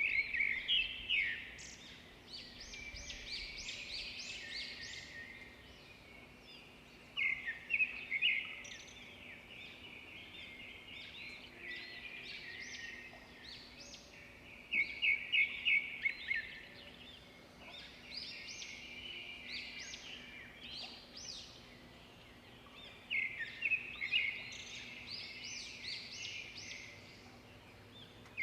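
A songbird singing in repeated phrases, one roughly every seven or eight seconds, each a quick run of high chirping notes, over a faint steady outdoor background.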